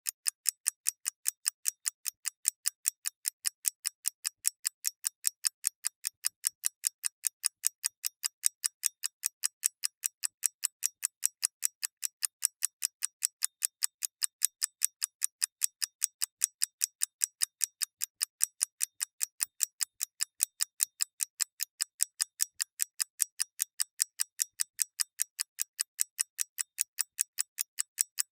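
Mechanical clock ticking: sharp, bright, perfectly even ticks, about three a second, with no other sound.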